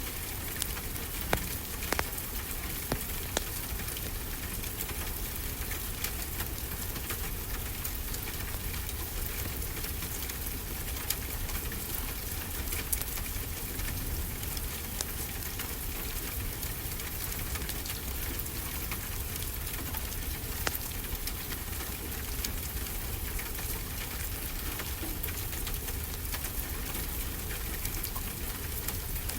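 Steady rain, an even hiss, with scattered sharp crackles from a wood fire in a fireplace.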